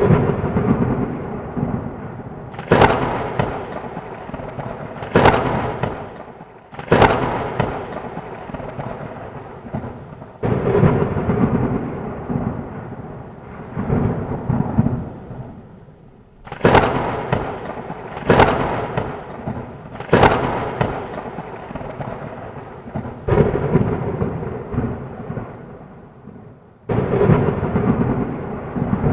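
Thunderstorm: loud thunderclaps, about six sharp cracks in two clusters of three, each trailing off into a long rolling rumble.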